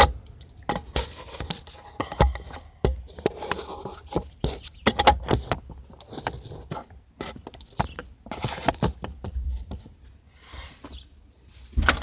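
Irregular clicks, knocks and scrapes of interior trim and steering-column parts being handled and worked apart by hand in a 1987 Mazda RX-7.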